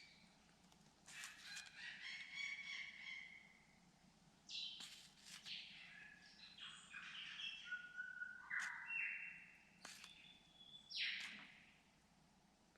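Birds calling close by: a varied run of clear whistled notes jumping between different pitches, mixed with sharp clicks, quieting near the end.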